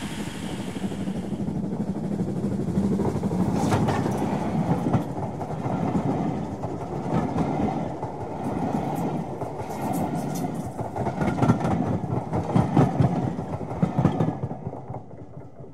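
Railway carriage running on rails: a steady rumble with irregular wheel clicks over the rail joints, fading out near the end.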